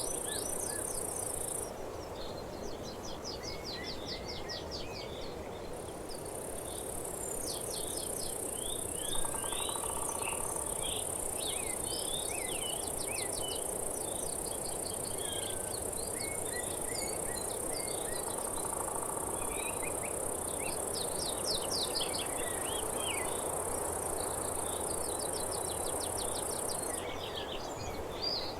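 Nature ambience: a steady high-pitched insect drone, such as crickets or cicadas, that drops out for a few seconds near the start and again near the end, with many birds chirping and trilling over a steady rushing background.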